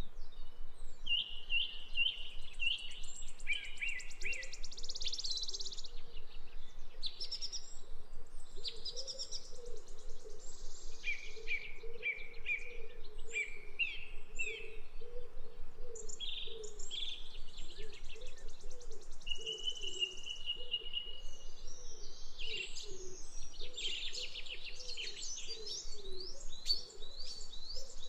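Songbirds singing: many overlapping chirps, quick trills and a held whistled note, with a lower warbling line running underneath.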